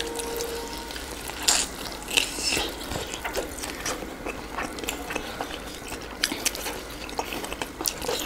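A person chewing and crunching fried chicken wings, an irregular run of small crackles and clicks.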